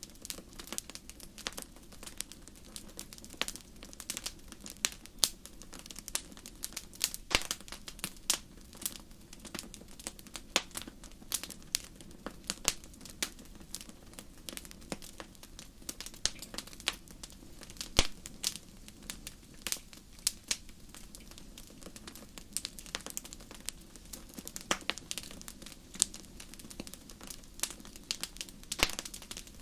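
Wood fire crackling steadily, with frequent sharp irregular pops and snaps over a soft low rush of burning.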